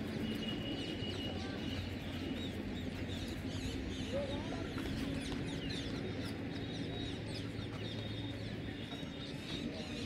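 Birds chirping in many quick, short calls over a steady background noise, with a thin high held tone near the start and again through the second half.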